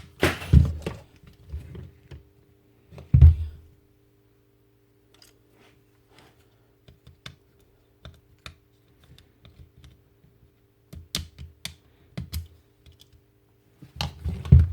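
Small clicks and knocks of a Bosch jigsaw's plastic housing, screws and tools being handled while it is dismantled to reach the carbon brushes, with a few louder knocks at the start and a single thump about three seconds in.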